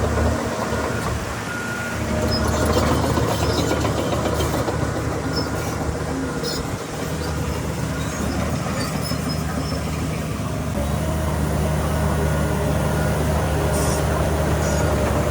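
Crawler bulldozer (Shantui DH17C3) working, its diesel engine running steadily under the clank of the steel tracks with short high squeaks. The engine note dips soon after the start and picks up again, then changes pitch about two-thirds of the way through as the load changes.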